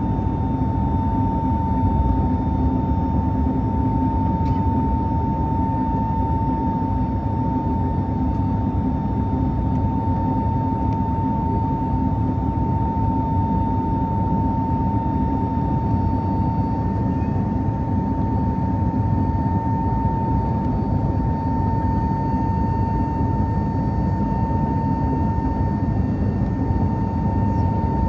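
Airbus A320 engines and airflow heard inside the cabin at takeoff thrust: a steady loud rumble with a constant whine just under 1 kHz.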